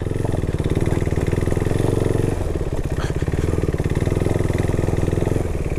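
Motorcycle engine running at low revs as the bike is brought in to park, with an even, rapid firing beat that is a little louder for the first two seconds before settling.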